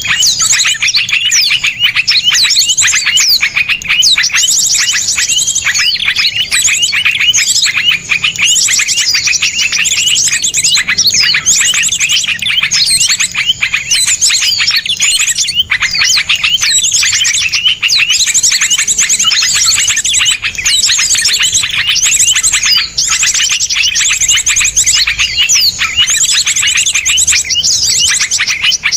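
Dense, unbroken chorus of small songbirds: sharp rapid-fire chirps and fast trills overlapping without pause. It is a 'masteran' tutoring track of rough, rapid 'tembakan' notes, played to cage birds for them to learn.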